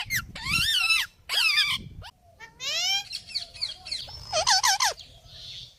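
Parrot vocalizing in a run of short pitched calls that arch and sweep up and down, about five groups with short gaps between them.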